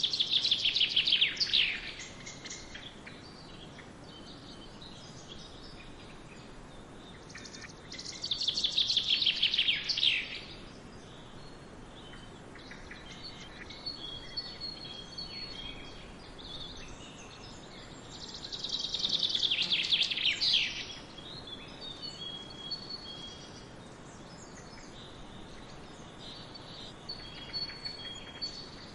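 A songbird singing a loud, fast trill that falls in pitch, three times about ten seconds apart, with fainter short chirps from other birds in between. A steady background hiss runs underneath.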